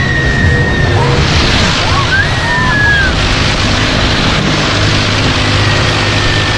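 Wind rushing hard over the microphone as the Mondial Turbine ride swings the riders through the air, with a rider screaming briefly about two seconds in.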